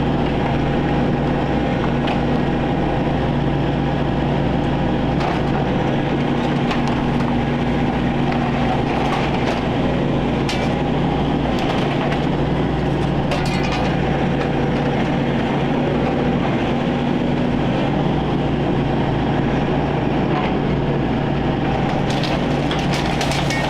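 Excavator engine running steadily under load, with scattered sharp cracks and snaps of wood and debris as the old trailer is torn apart.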